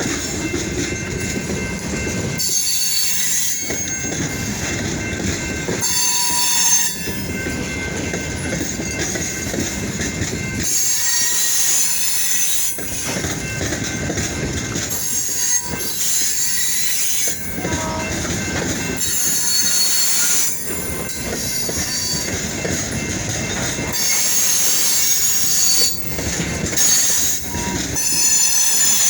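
Freight train cars rolling past, their steel wheels squealing on the rails with a clickety-clack over the rail joints. The sound changes every few seconds as car after car goes by.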